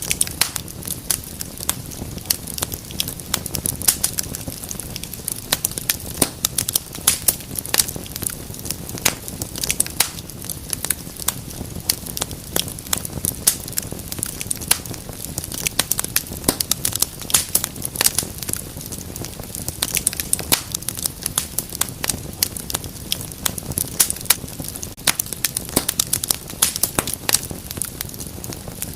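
Wood fire burning in a fireplace, crackling and popping with many irregular sharp snaps over a steady low rush of flame.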